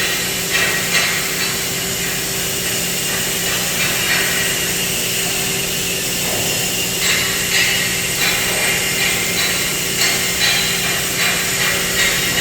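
Metalworking machinery in a steel shop: a steady hum and a constant hiss, with irregular sharp metallic knocks and clanks coming in clusters.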